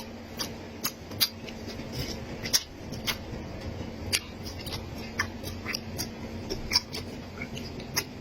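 Close-up eating sounds: irregular sharp crunches and clicks of biting and chewing food, two or three a second, over a faint steady hum.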